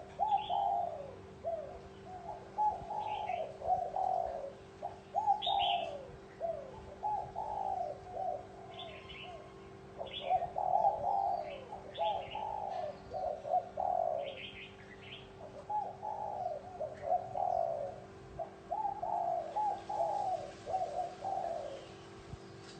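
Spotted dove cooing over and over, in runs of low, wavering coos with short pauses between phrases. Short, higher chirps from small birds come in between, over a faint steady hum.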